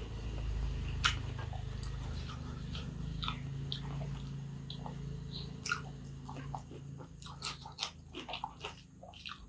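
Close-miked mouth sounds of eating kottu roti: chewing with short wet clicks and crunches, more of them in the second half. A low steady hum sits under the chewing and fades out about two-thirds of the way through.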